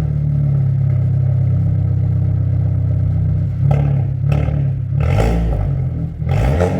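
Renault Samsung XM3 1.3 turbo four-cylinder engine heard through a custom dual exhaust with 90 mm dual tips, idling steadily, then revved in about four short throttle blips in the second half.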